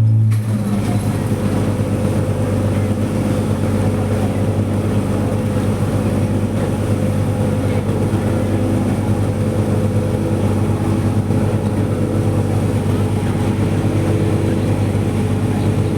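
A ferry's engines running steadily: a low, even hum with a rushing noise of water and wind over it.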